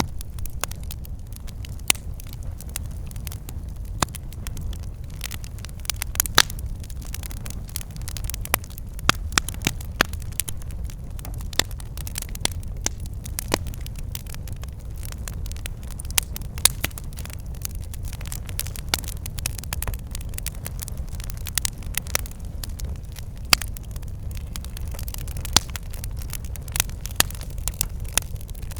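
Wood fire burning, with a steady low rumble of flames and frequent sharp crackles and pops from the burning firewood, a few of them louder snaps.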